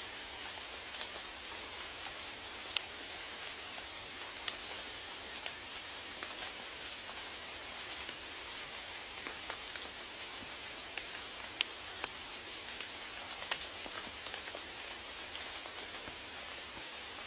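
Steady rain falling, a constant hiss with many individual drops ticking sharply against a surface, a few louder drops standing out.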